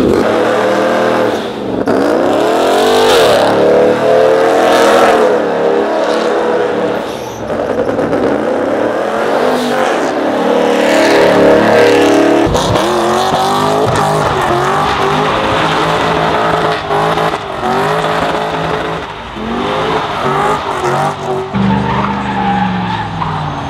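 Truck engine revving hard and repeatedly, its pitch climbing and dropping, with tires squealing: a burnout.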